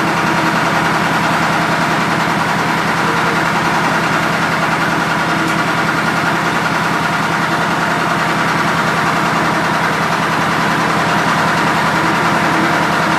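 Large diesel engine idling steadily at an even speed.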